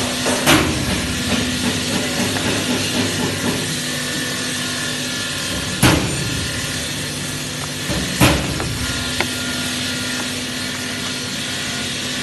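TIG welding arc on stainless steel sheet, a steady hiss with a low hum, broken by three sharp knocks: one right at the start, one about six seconds in and one about eight seconds in.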